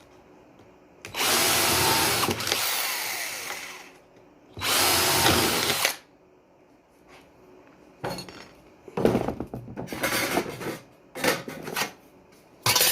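Electric drill boring a hole: one run of about three seconds that winds down, then a shorter run, followed by several short bursts and knocks.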